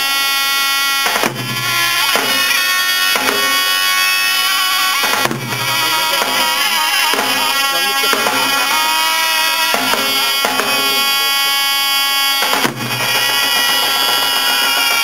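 Bağlama played solo: a run of plucked notes ringing over a held drone, with three sharp struck accents standing out, about a second, five seconds and thirteen seconds in.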